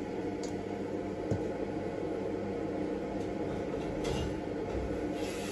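A steady mechanical hum, like an appliance motor running, with a few light clicks.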